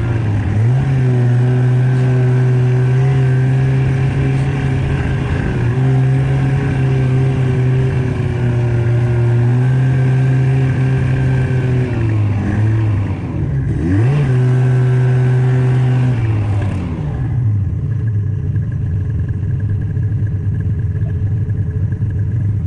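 Snowmobile engine running at a steady pitch under throttle, easing off and picking back up about twelve to fourteen seconds in, then dropping to a lower, quieter idle about seventeen seconds in as the sled comes to a stop.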